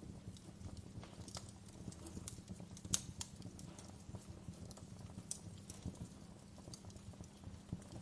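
Wood fire crackling in a fireplace: irregular pops and snaps, one sharper pop about three seconds in, over a low steady rumble of the flames.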